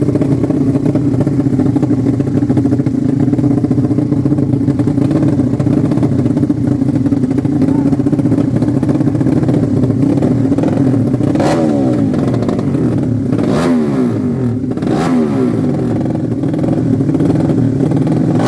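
Racing motorcycle engines running loud and steady; from about eleven seconds in, several engines rev, their pitches rising and falling across one another, with a few sharp pops.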